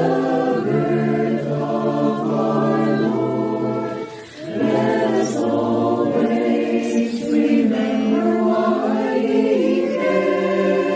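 Church choir singing a Christmas carol in harmony, holding long notes, with a short break for breath about four seconds in.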